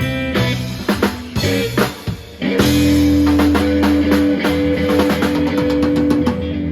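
Live blues band playing an instrumental passage: guitar with drum kit, a short break about two seconds in, then held chords under steady drum strokes.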